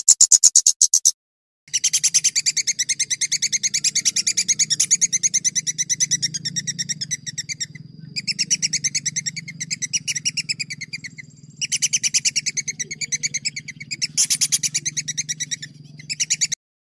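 Songbird singing long rolling trills of rapid, sharp repeated notes, about ten a second. Each run lasts several seconds and is broken by short pauses, over a faint low hum. The sound cuts off abruptly near the end.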